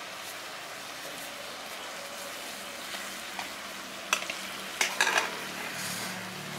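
Mutton pieces frying and sizzling in a clay pot over a wood fire, with a few sharp clicks about four and five seconds in.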